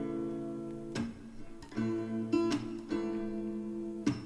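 Background music: an acoustic guitar strumming chords, a new strum roughly every second.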